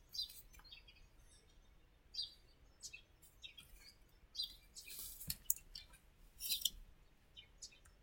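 Faint, scattered bird chirps, short high-pitched calls every second or so, with a soft click about five seconds in.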